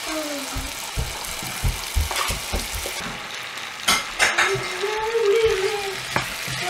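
Cubes of marinated elephant foot yam sizzling in hot oil in a nonstick kadai as they are added. About four seconds in come two sharp utensil knocks, then a wooden spatula stirring the pieces.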